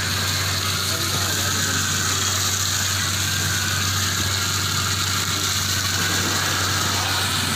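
A building fire burning, a steady dense crackle with a low hum underneath.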